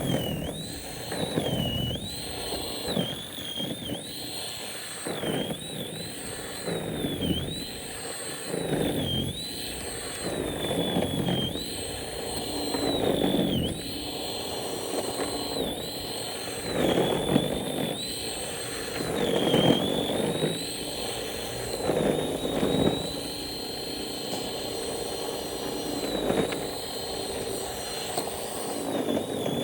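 A snowblower's motor whining steadily, its pitch dipping briefly again and again as it bites into snow, each dip coming with a rush of snow being churned and thrown.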